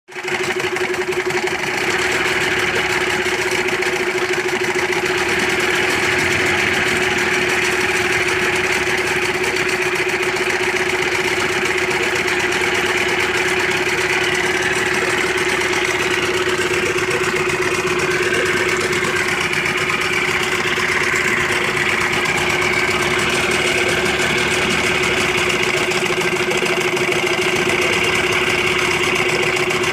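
Yamaha 15 hp outboard motor running steadily at idle, its pitch holding even throughout.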